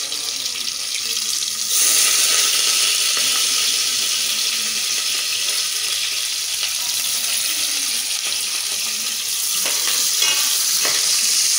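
Sliced onions frying in hot palm oil in a steel pot: a loud, steady sizzle that grows louder about two seconds in. A ladle stirs through it near the end.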